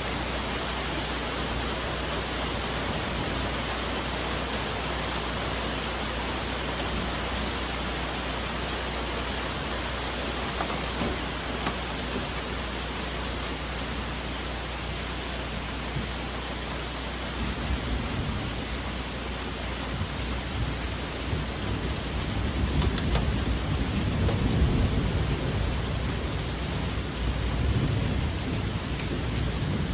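Steady rain falling on forest foliage, with a low rumble of rolling thunder coming in a little past halfway and growing louder near the end.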